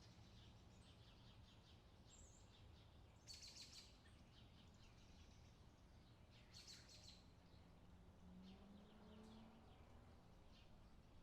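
Faint songbirds singing in short, rapid chirping trills, with two louder phrases about three seconds and six and a half seconds in, over a steady low background hum.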